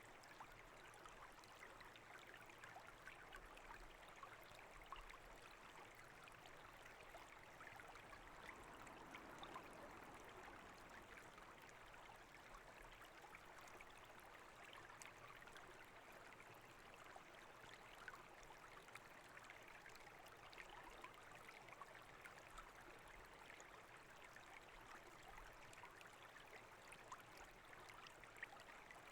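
Faint, steady babble of a small brook: water running and trickling over stones, with fine splashing ticks throughout.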